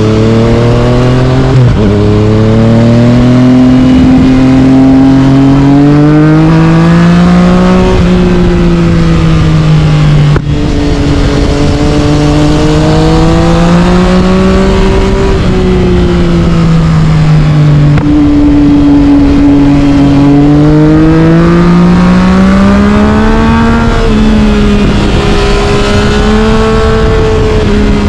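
Yamaha MT-09 inline-three engine through an Akrapovic carbon exhaust, loud and continuous under way, its revs rising and falling again and again as the throttle is rolled on and eased off. Its loudness dips briefly about ten seconds in.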